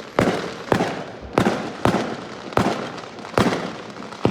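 Fireworks bursting in a display: about eight sharp bangs in quick succession, roughly two a second, each trailing off in a fading rumble.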